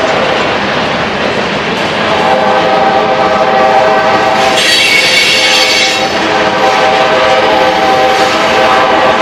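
Freight cars of a long mixed freight train rolling past, loud, their steel wheels running over the rails with a steady ringing tone. About halfway through there is a brief high-pitched squeal lasting a second or so.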